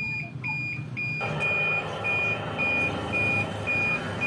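Reversing alarm beeping at about two beeps a second, one high steady tone each time. About a second in, an engine-like rumble starts under the beeps.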